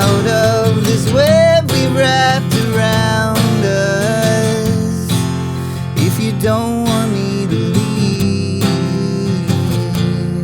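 Live emo song played on strummed acoustic guitar, with a wordless vocal line bending over it in places; the final chord starts to fade at the very end.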